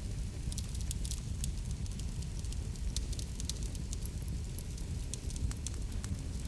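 Wood fire crackling in a fireplace: frequent sharp pops and crackles over a steady low rumble.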